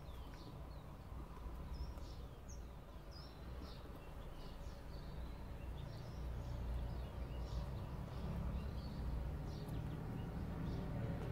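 Small birds chirping repeatedly in short, high calls over a steady low hum.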